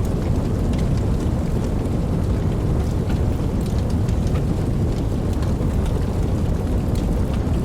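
Steady rain: an even, deep rushing with scattered single drops ticking on top.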